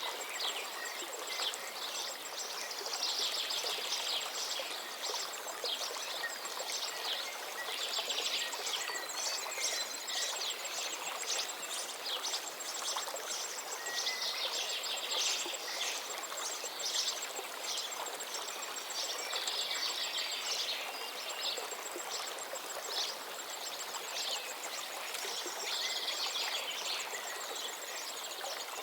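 A stream running steadily, with small birds chirping in repeated bursts of short, quick notes over it.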